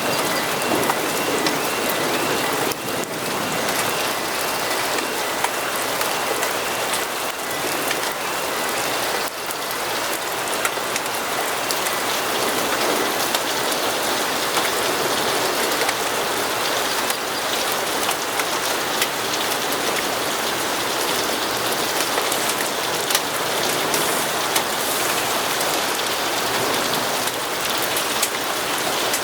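Steady rain with scattered sharp drop ticks. A faint, quickly repeated high chirp runs through the first several seconds.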